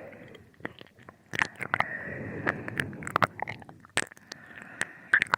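Close-up binaural ear-licking sounds: wet tongue and lip smacks coming as irregular sharp clicks.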